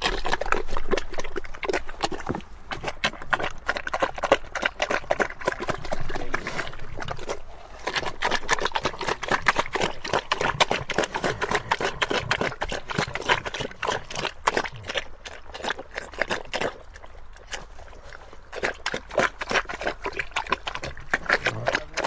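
Pigs feeding: a dense run of wet chewing and smacking sounds that goes on almost without a break, easing off briefly twice.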